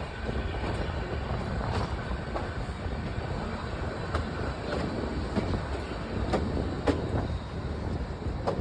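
Kalka–Shimla narrow-gauge toy train running: a steady low rumble with sharp clacks at uneven intervals as the wheels cross rail joints.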